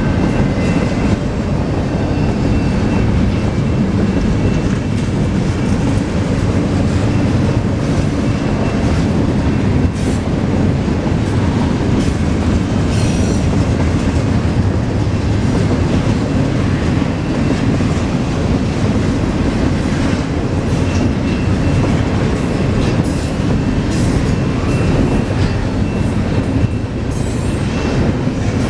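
Double-stack intermodal container train rolling past at close range: a steady rumble of steel wheels on rail, with scattered clicks over the rail joints and a faint, thin, steady squeal above it.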